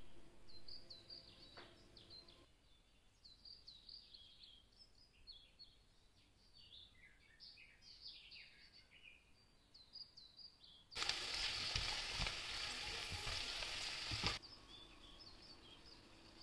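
Birds chirping faintly for the first ten seconds or so, then chicken livers sizzling loudly in a frying pan for about three and a half seconds, with a few low knocks, cutting off suddenly.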